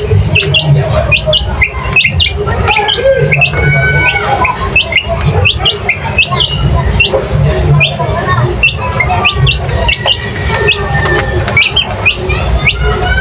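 Many birds chirping and squawking in quick, overlapping short calls, several a second, over a steady low rumble.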